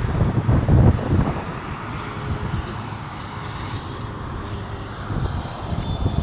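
Wind buffeting the microphone, heaviest in the first second or so, then easing to a steadier rush.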